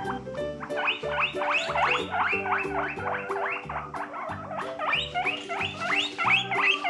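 Guinea pig squealing: a rapid run of short, rising squeaks, several a second, over background music with a steady bass beat.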